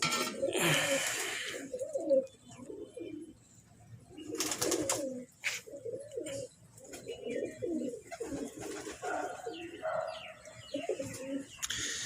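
A flock of domestic pigeons cooing, with many low coos overlapping. A couple of brief noisy bursts stand out, one in the first second and a half and one about four seconds in.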